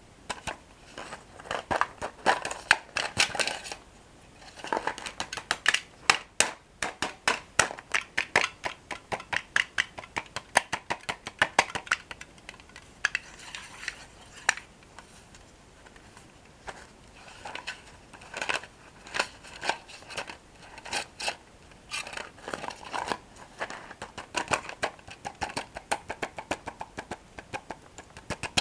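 Close-miked crunching of crisp toasted breadsticks being bitten and chewed, in quick runs of sharp crackling crunches with short pauses between them.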